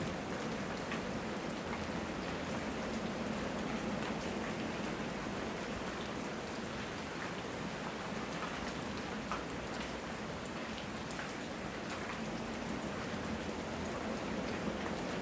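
Steady rain falling, an even hiss with scattered drops ticking on surfaces, recorded on a phone's built-in microphone.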